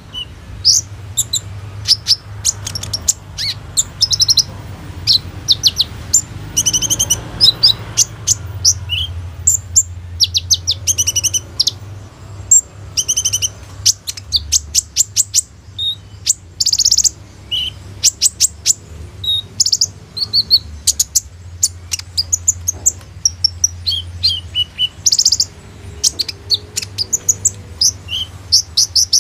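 Van Hasselt's sunbird (kolibri ninja) singing vigorously: a rapid, almost unbroken run of high, thin chips and short trills, its song filled with phrases copied from other songbirds. A steady low hum runs underneath.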